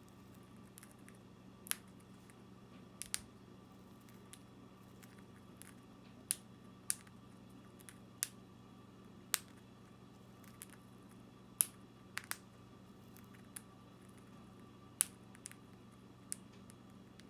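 Conure's beak cracking millet seeds: sharp, irregular clicks, roughly one a second, sometimes two in quick succession. A low steady hum runs underneath.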